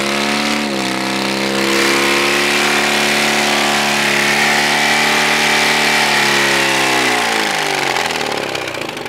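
Car engine held at high revs and run hard. The revs climb about a second in, stay high and steady, then sink away over the last couple of seconds as the engine is run toward seizing.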